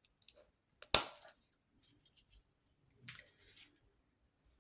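Handling of a bottle of Golden Fluid Acrylic paint: one sharp click about a second in, then a few short, hissy rustles as the paint is got out.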